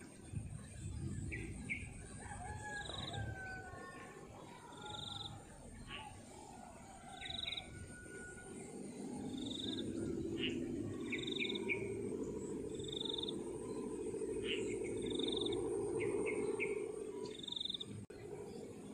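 Birds calling: a short high note repeated about every two seconds, with scattered chirps and falling whistles between. From about nine seconds in, a low steady drone joins and is the loudest sound for several seconds before fading near the end.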